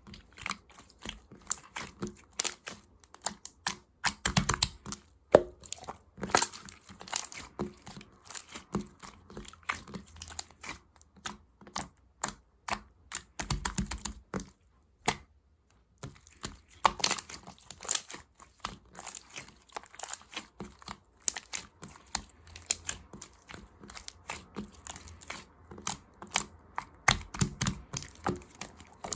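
Rainbow slime being squished and stretched by hand, making a dense run of sticky clicks, pops and crackles, with a short pause about halfway through.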